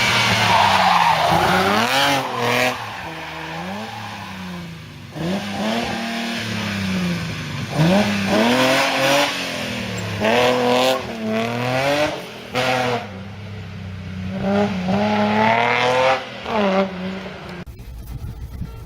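Rally car engine revving hard, rising in pitch through the gears and dropping sharply off the throttle, over and over as it is driven through a stage. The engine sound cuts off abruptly near the end.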